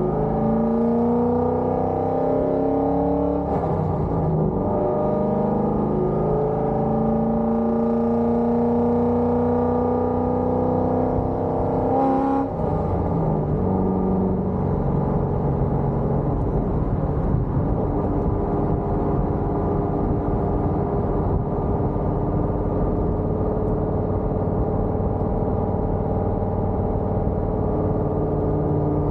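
Exhaust of a cammed C5 Corvette Z06's LS6 V8 with headers and Borla ATAK mufflers, on the move: the engine note climbs, drops with a gearshift about three seconds in, climbs slowly again, drops with another shift about twelve seconds in, then settles into a steady cruise.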